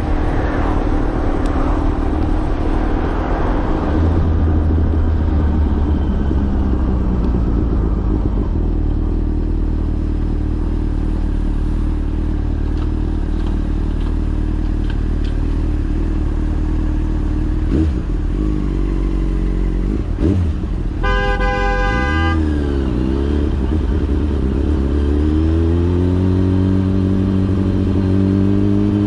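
Yamaha FZ6 motorcycle's inline-four engine running under way, its pitch dropping and then climbing again with the throttle toward the end. A vehicle horn sounds for about a second and a half roughly three-quarters of the way through.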